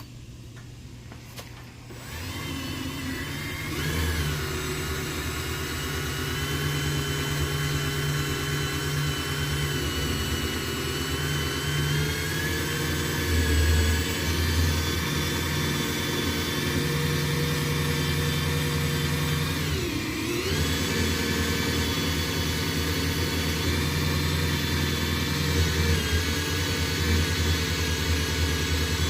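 Hand-held power tool whining at low, steady speed as its wheel is worked over a truck door, stripping off old double-sided molding tape. It starts about two seconds in and dips briefly in pitch about two-thirds of the way through as it bogs under load, then picks back up.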